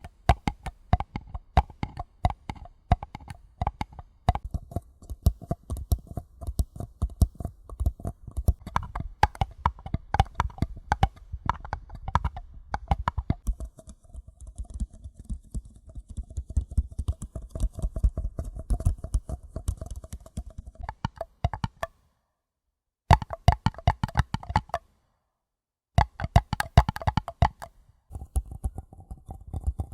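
Paper cups being tapped quickly and irregularly, many light taps a second with a hollow ring. The tapping cuts to silence twice for about a second each, in the last third.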